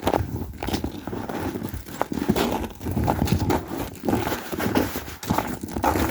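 Footsteps and clothing rustle of a person walking along a trail, an uneven run of soft steps.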